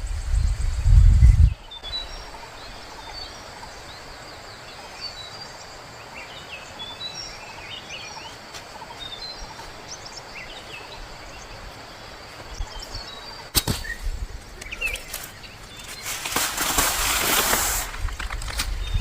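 Small birds chirping repeatedly in the background. A heavy low rumble sounds at the start, a sharp click comes about two-thirds of the way in, and a loud rustling noise follows near the end.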